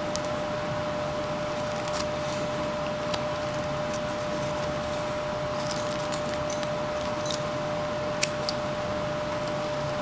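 Hand carving tool cutting basswood in short strokes: scattered light snicks and scrapes, with one sharper click a little after eight seconds. A steady hum runs underneath.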